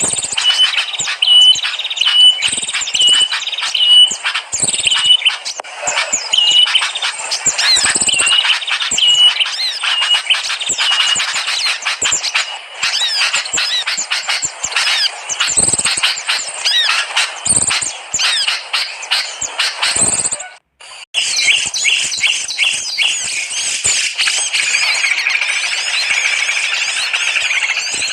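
Bird-lure recording of small songbirds: a short high call note repeated about once a second over a busy mix of chirps and trills, then, after a brief break about three-quarters of the way through, a dense continuous twittering.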